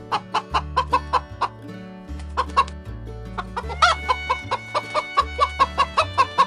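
Chickens clucking in quick repeated calls, with a rooster crowing about four seconds in, over background music.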